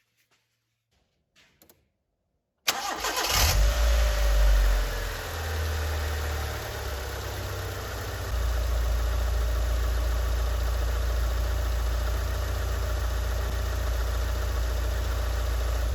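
Proton Satria GTI's four-cylinder petrol engine cranked and firing up about two and a half seconds in, catching at once and revving a little higher before settling into a steady idle, freshly serviced with new oil and spark plugs. Its low drone grows louder about eight seconds in.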